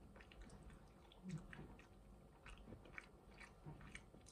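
Faint chewing of a mouthful of cheese and tomato pizza: soft, irregular mouth clicks.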